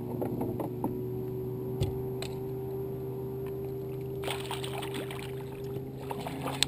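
A hooked catfish being reeled to the kayak, splashing at the water's surface for a couple of seconds past the middle, over a steady low hum; a few small clicks come earlier.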